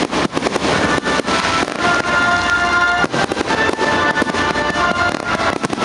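Fireworks bursting and crackling in rapid succession, with music playing underneath in long, held notes.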